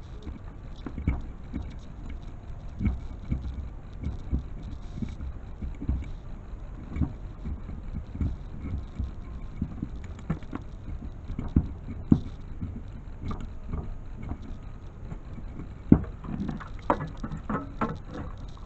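Irregular light knocks and clicks, with a loud knock just after twelve seconds and another near sixteen, then a cluster of sharper clicks near the end.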